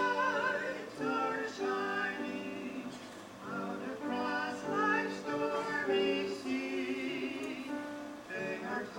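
Singing with instrumental accompaniment: sung phrases with vibrato over sustained chords, swelling and easing in loudness phrase by phrase.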